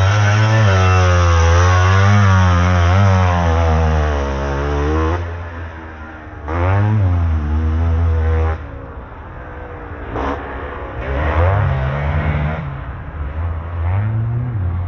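Motocross dirt bike engine revving hard, its pitch climbing and dropping repeatedly as the throttle is worked for about five seconds, then a second short loud burst of revving, followed by quieter bikes further off.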